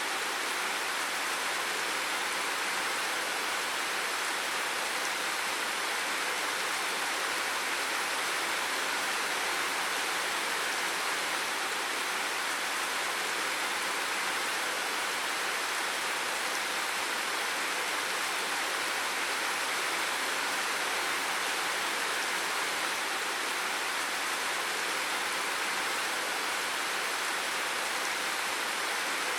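Steady, even rushing of water, unchanging throughout, with little low rumble and most of its sound in the middle and high range.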